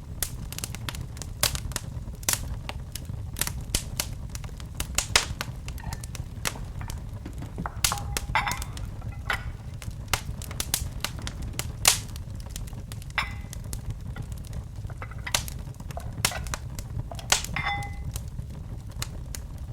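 Wood fire in a fireplace crackling: irregular sharp pops and snaps, a few louder ones now and then, over a steady low rumble of the flames.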